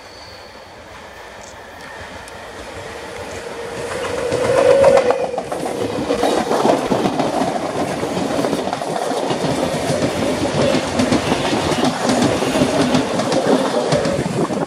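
CPTM Série 1700 Mafersa electric multiple unit approaching and passing close by. The sound builds over the first five seconds to a peak with a steady tone, then the cars run past with a continuous rattle and the wheels clacking over the rail joints.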